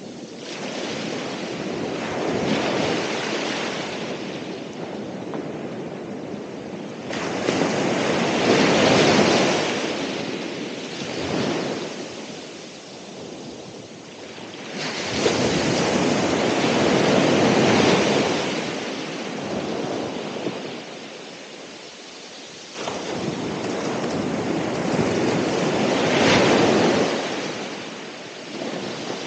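Ocean waves breaking and washing onto the shore, each surge of surf swelling and fading; four waves break, roughly every eight seconds.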